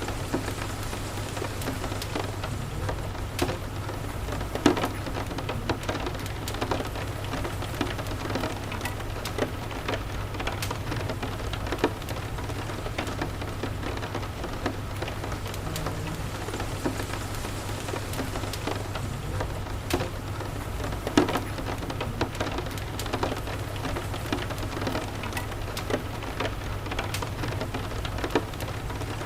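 Steady rain falling, mixed with the sharp, irregular pops of a crackling wood fire, the loudest pops about 5, 12 and 21 seconds in. A low steady rumble runs underneath.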